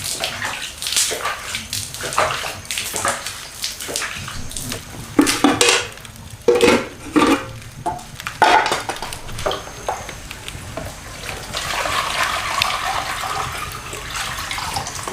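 Water splashing and running, with irregular knocks and clatter throughout, and a steadier rush of water about eleven seconds in.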